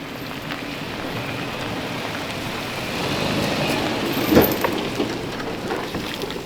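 A Toyota being driven slowly, engine and tyre noise growing louder about three seconds in, with a sharp knock a little after four seconds.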